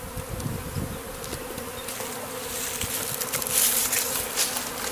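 A swarm of honeybees buzzing as a steady hum. A louder stretch of crackling hiss comes in about two and a half seconds in and lasts a couple of seconds.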